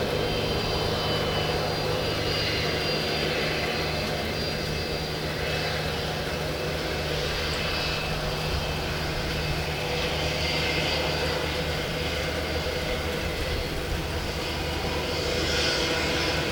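Airliner engines running steadily at low power while it taxis close by: a steady hum with a thin high whine that swells slightly twice.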